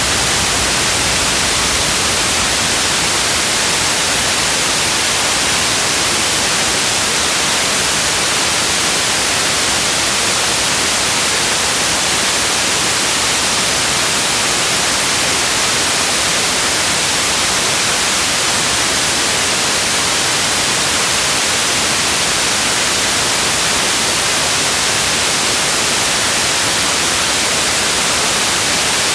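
Steady, even hiss of a relaxation rain-sound track. It runs without change and has no separate drops or patter, so it is close to white noise.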